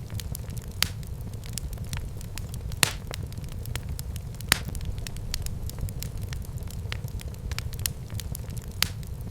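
Wood fire burning in a fireplace: a steady low rumble of flames with scattered crackles and sharp pops, the loudest pops about a second in, near three seconds, halfway and near the end.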